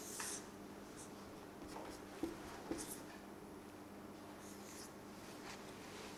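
Faint scratchy strokes of someone writing by hand, with two light taps a little after two seconds, over a low steady hum.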